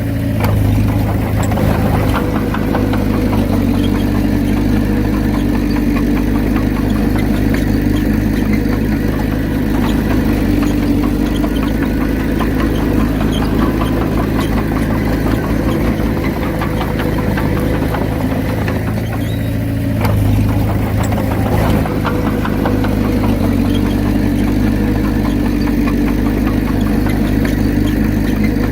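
Komatsu D31P bulldozer's diesel engine running steadily while working. It grows a little louder about a second in and again at around twenty seconds.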